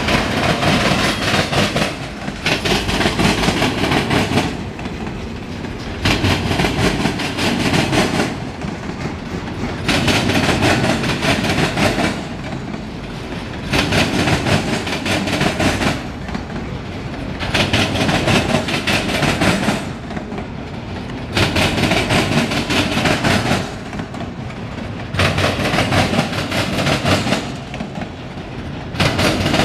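Freight train's autorack cars rolling past, a continuous loud rail noise that swells and eases in a steady rhythm about every four seconds.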